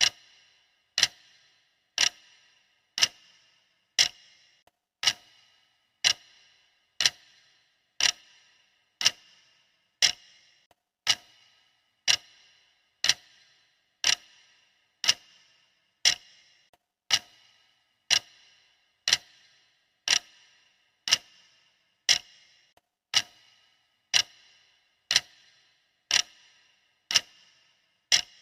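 Clock ticking steadily at one tick a second, each tick a sharp click with a short ring: the running count of a countdown timer.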